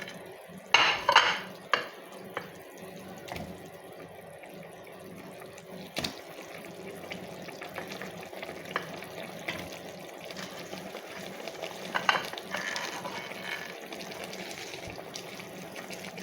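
Pieces of chicken being put into a pot of boiling tomato stew, with clatters of a utensil against the pot about a second in and again around twelve seconds, over the steady bubbling of the stew.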